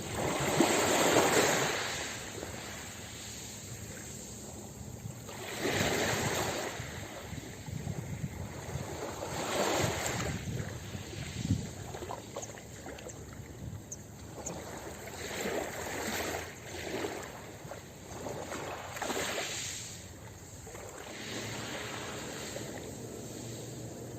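Ocean waves breaking and washing up a beach, the surf swelling in surges about every four to five seconds, the loudest near the start.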